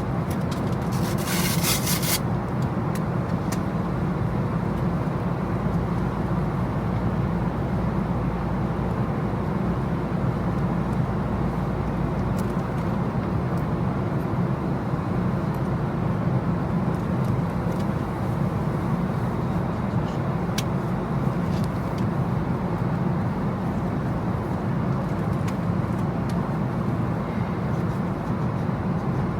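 Steady low rumble of a moving road vehicle with road noise, and a short high hiss about a second in.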